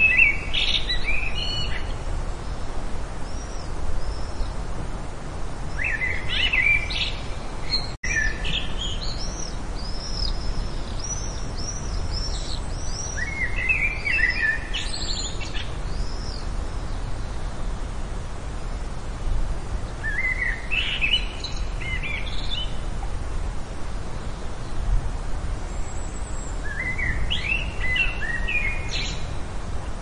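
A songbird singing short bursts of quick chirps and trills, a phrase about every six to seven seconds, over a steady low background hiss.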